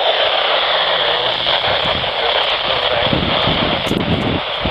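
Steady, loud radio static hiss with a thin, tinny sound, as heard from a radio receiver between broadcasts.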